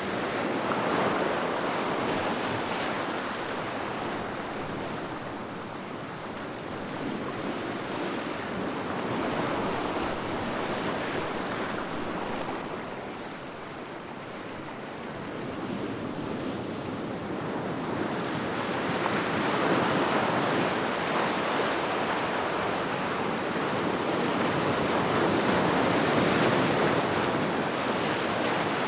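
Sea waves breaking and washing ashore, the surf swelling and easing in slow surges every several seconds.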